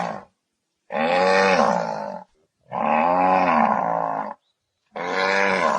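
Four long animal calls in a row, each lasting about a second and a half and rising then falling in pitch, each starting and stopping abruptly.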